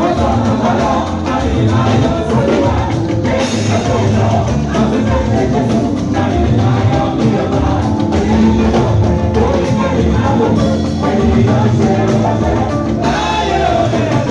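Church choir singing with instrumental accompaniment.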